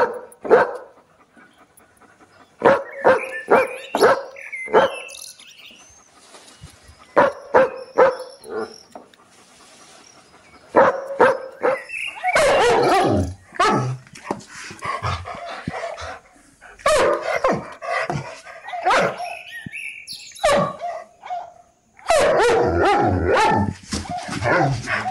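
Dogs barking behind chain-link fencing: a German Shepherd-type dog gives short runs of sharp barks with pauses between them. From about halfway, a brindle dog barks in denser, almost unbroken volleys.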